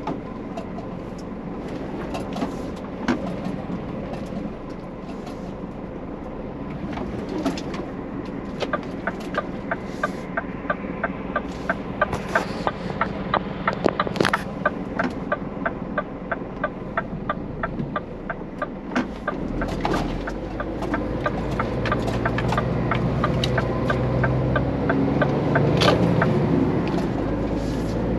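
Rapid, even ticking at about four a second, then, about two-thirds of the way through, the steady low hum of a Scania truck's diesel engine comes in and keeps running.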